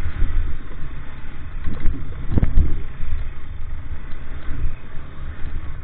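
Motorcycle engine running steadily, with a single sharp knock a little before halfway through.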